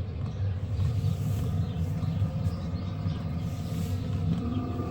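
Vevor 5 kW diesel heater running steadily on its lowest fuel-pump setting, a low, steady rumble of combustion and blower.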